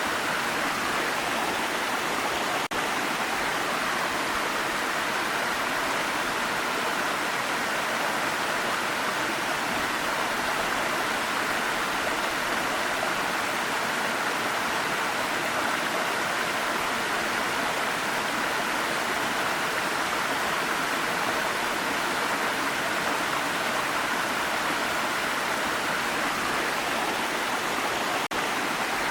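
Waterfall: steady rushing and splashing of falling water, with a momentary dip in level twice.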